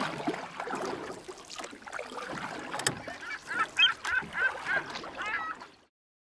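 Birds calling in a quick series, about three calls a second, in the second half, over a steady noisy background. All of it cuts off abruptly near the end.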